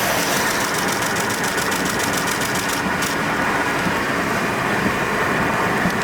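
Steady road and engine noise inside a moving car's cabin. The high hiss lightens a little about halfway through.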